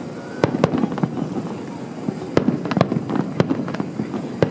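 Aerial fireworks shells bursting: a string of about eight sharp bangs at irregular intervals over a continuous low rumble.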